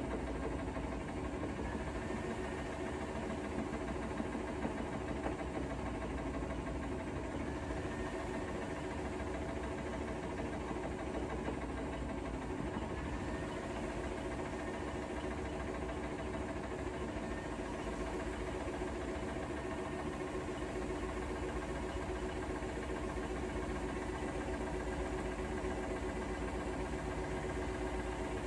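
Bosch Serie 4 WAK20260TR front-loading washing machine running steadily, a continuous motor and drum hum with several fixed tones and no pauses or rises in speed.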